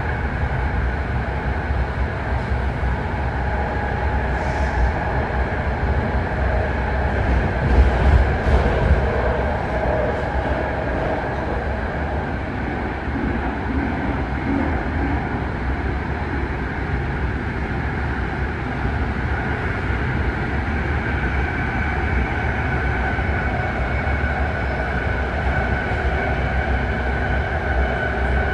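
A BART train running at speed through a tunnel, heard from inside the car: a steady rumble and rail noise with a constant high-pitched tone over it. A few louder knocks come about eight seconds in.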